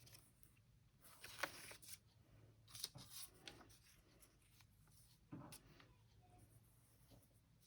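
Near silence with a few faint, brief rustles of paper cutouts being handled, at about a second and a half, around three seconds, and again after five seconds.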